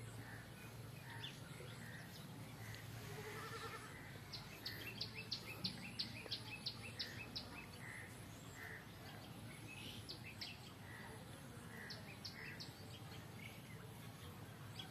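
Birds calling: a quick run of sharp, high chirps about four a second, stopping and starting again twice, over a softer note that repeats steadily.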